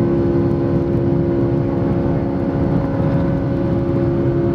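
Airliner jet engines heard inside the cabin: a steady, loud low rumble with a constant hum of several fixed tones.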